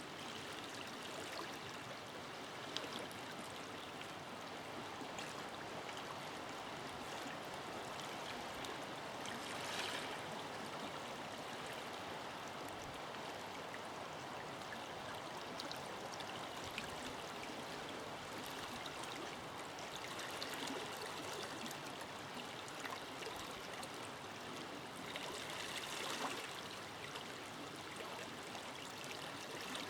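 Forest river flowing over stones: a steady rush of water with small splashes and gurgles, swelling briefly now and then.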